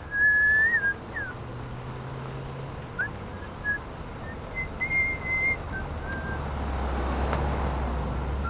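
Engine of a 1940s-style black sedan running as the car drives slowly up, its low rumble growing louder over the last couple of seconds. A few short, held whistled notes sound over it.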